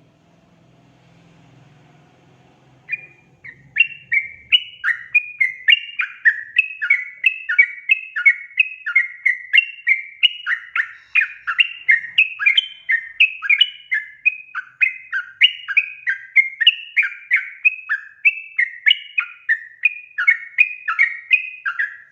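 Yellow-vented bulbul (trucukan) giving its loud, chattering call, a rapid run of short notes that slide down in pitch, about two to three a second. The calling starts about three seconds in and keeps going without a break.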